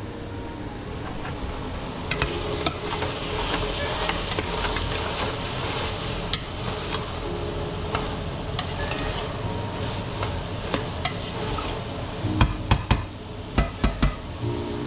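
Burrito filling sizzling in hot cookware while it is stirred with a utensil. Sharp clinks of the utensil on the pot run through it, with a quick cluster of louder knocks near the end.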